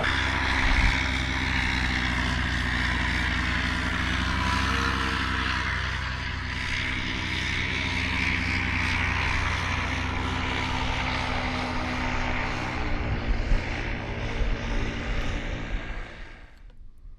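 A steady engine drone that cuts off abruptly near the end.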